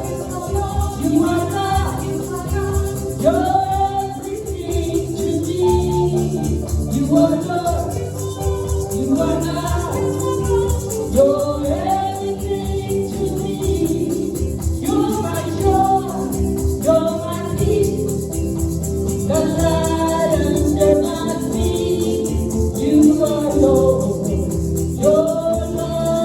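Gospel music: a voice singing over sustained chords, with a rattling hand percussion keeping time.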